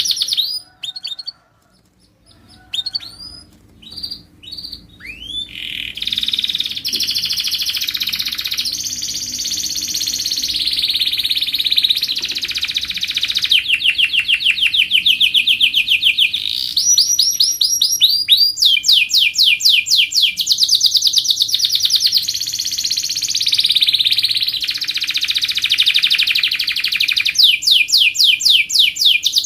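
Canary singing a long, continuous song of rapid trills, each trill a fast run of the same note repeated, switching to a new trill every second or two. Near the start there is a short pause broken by a few single chirps before the song resumes.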